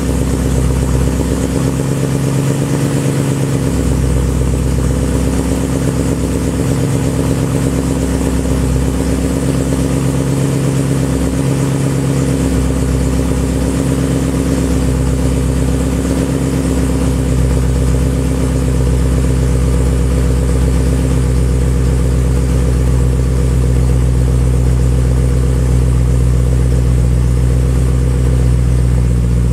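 BMW E92 M3's 4.0-litre V8 idling through Remus race mufflers and Eisenmann connecting pipes in the cold-start warm-up. The exhaust note wavers slightly in the first half, then settles steadier.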